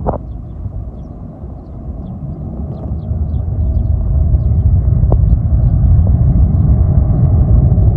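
Jet airliner engines at takeoff power: a deep, steady rumble that swells over the first few seconds and then holds loud, with a faint steady hum above it.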